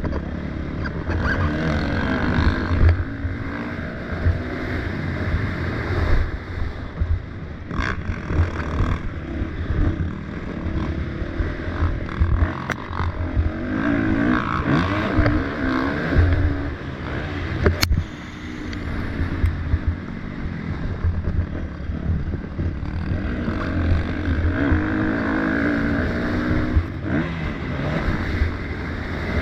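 Motocross bikes racing, their engines revving up and down as riders come past, swelling loudest three times, with a constant low rumble underneath.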